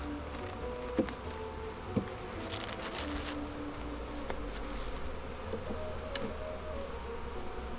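Honeybees buzzing around an open hive, several flying close with hums at shifting pitches that come and go. Two short sharp clicks, about one and two seconds in.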